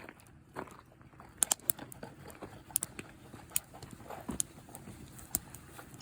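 Campfire of atebi (hinoki asunaro) stick firewood crackling: irregular sharp pops, several per second at times, over the soft steady noise of the burning wood.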